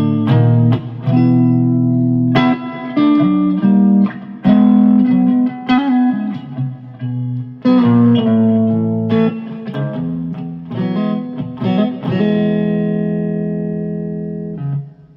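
Electric guitar strumming chords through two amplifiers split left and right for a stereo sound. The chords are struck every second or two and let ring, and the last one sustains and fades out near the end.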